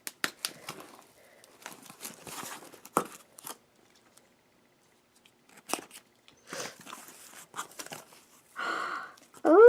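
Packaging being torn open and crinkled by hand, in short irregular bouts of tearing and rustling with a brief pause midway.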